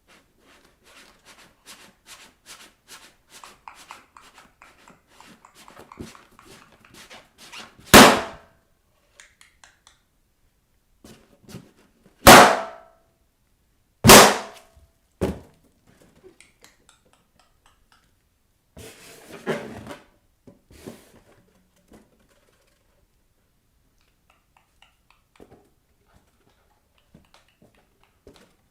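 Bare feet tapping and scratching on rubber balloons in a quick run of light taps, then three loud balloon pops a few seconds apart and a smaller bang just after. Later comes a short burst of feet rubbing on balloon rubber.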